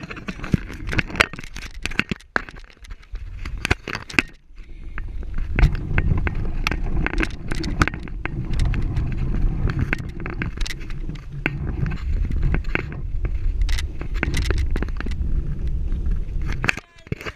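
Low, uneven rumble on the microphone with frequent rattling clicks and scrapes, like a camera being handled or carried while moving.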